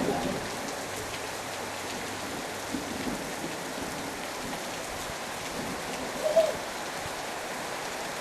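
Heavy storm rain falling steadily, with one short higher-pitched sound about six seconds in.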